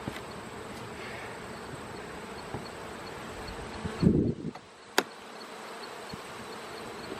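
Honey bees buzzing steadily around the hive. About four seconds in there is a louder knock of handling, and a second later a single sharp click.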